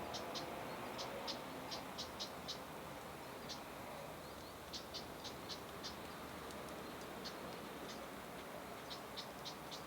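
Long-tailed rosefinch giving short, high call notes, in quick pairs and little runs with gaps between, over a steady outdoor hiss.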